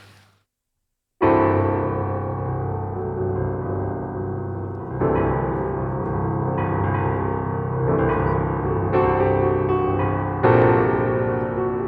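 Slow background piano music that starts with a chord about a second in after a brief silence, followed by new chords and notes every second or two, each left to ring.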